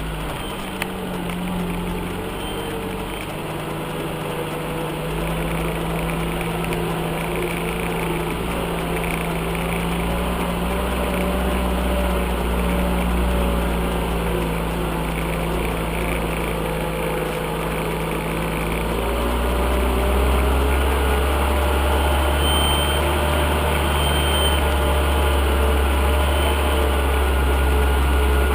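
UAZ off-road vehicle's engine running steadily, growing louder and heavier about two-thirds of the way in.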